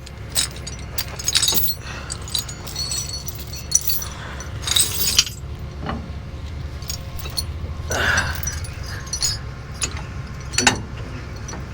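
Tow chains clinking and clanking against metal as they are hooked around a pickup's axles, in scattered irregular strikes over a steady low rumble.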